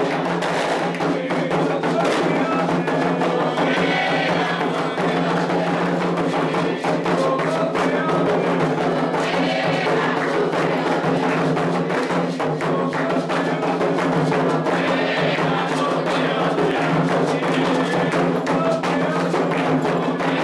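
Candomblé ritual drumming: atabaque hand drums and a struck bell beating a steady rhythm for Oxóssi, with voices chanting over the drums at times.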